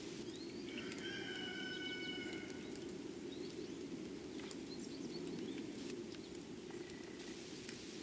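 Faint birds calling in the distance over a steady low rushing background. Scattered short ticks throughout, and one long, even note lasting about two seconds starting about a second in.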